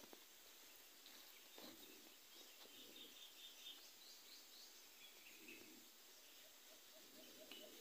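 Near silence, with faint bird chirps: a quick run of high notes about two to three and a half seconds in, and a few more around five seconds.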